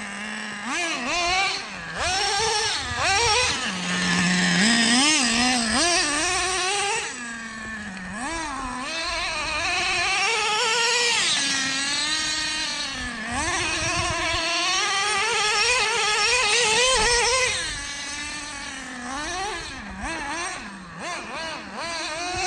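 Traxxas Slayer nitro RC truck's small glow-fuel engine running hard as the truck is driven, its buzzing whine rising and falling over and over with bursts of throttle and letting off.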